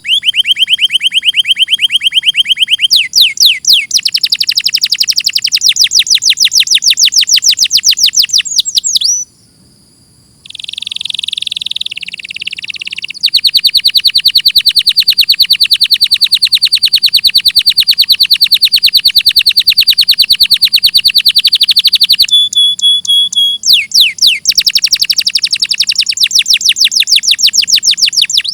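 Domestic canary singing: long, fast trills of rapidly repeated high notes, one run after another. The song breaks off briefly about nine seconds in, resumes with a few seconds of lower, softer notes, and then returns to long, fast trills.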